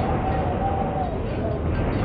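Wind blowing steadily, mostly low in pitch, with a faint whistle that wavers up and down.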